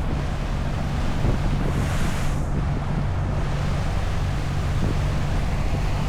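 Dive boat under way: its engine running with a steady low hum, with wind buffeting the microphone and water rushing past.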